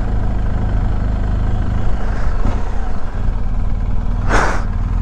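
BMW R1250 GS Adventure's boxer-twin engine running steadily with a low hum. A short hiss comes about four seconds in.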